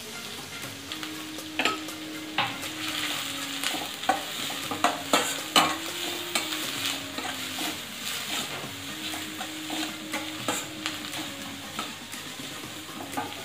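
Chopped onion, garlic and green chilli sizzling in hot oil in a stainless-steel kadhai, stir-fried with a metal spatula that scrapes and clicks against the pan, the loudest clicks about a second and a half in and around five to six seconds in.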